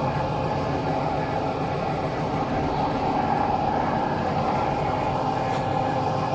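Steady mechanical drone with a constant whine over a low rumble, unbroken and unchanging.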